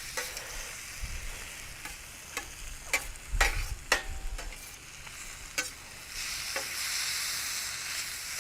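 Chicken and onions in soy sauce sizzling on a griddle pan, with a spatula clacking and scraping against the pan several times as the food is stirred. The sizzle grows louder about six seconds in.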